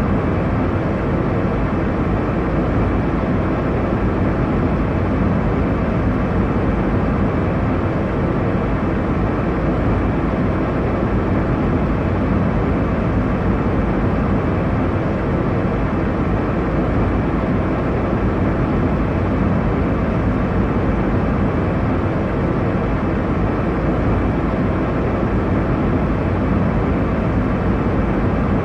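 Airliner cabin noise: an even, unchanging rumble, heaviest in the low range, with a few faint steady hum tones.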